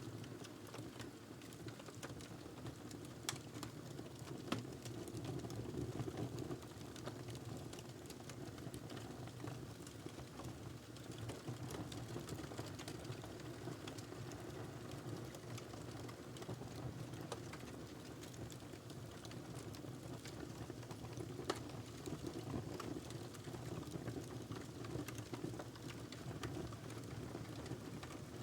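Wood fire crackling in a fireplace: a steady low rush of flame with constant small crackles and a few sharper pops, about three and four and a half seconds in and again past twenty seconds.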